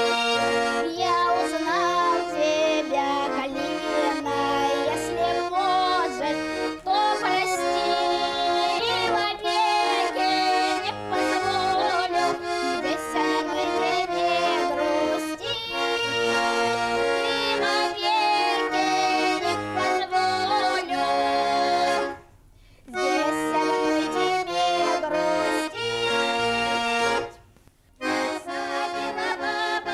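Accordion music: a melody over sustained chords, with two short breaks in the playing, one about two-thirds of the way through and one near the end.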